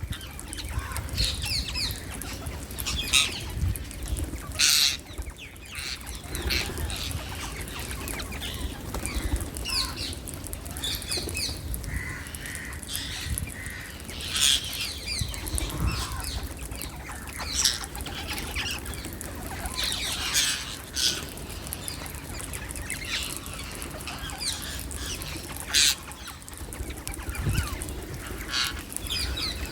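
A group of wild Indian parakeets calling, with many short, harsh chirps and screeches coming at irregular intervals, several of them overlapping, over a low steady rumble.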